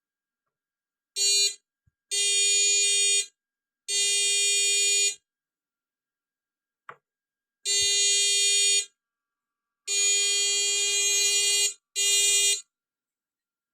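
Small electrofishing shocker's inverter giving a steady, high-pitched buzz in six bursts of one to two seconds each, cutting on and off as the unit is triggered.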